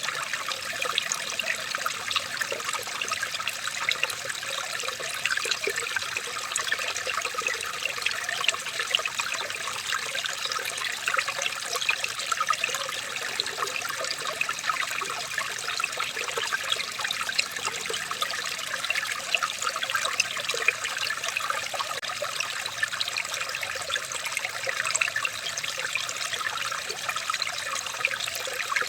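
Water trickling and babbling steadily, with a dense patter of small splashes and no change throughout.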